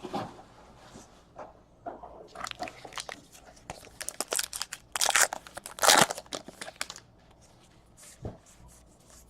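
Trading card pack wrappers crinkling and tearing as packs are opened and cards handled, in irregular rustling bursts. The loudest bursts come about five and six seconds in.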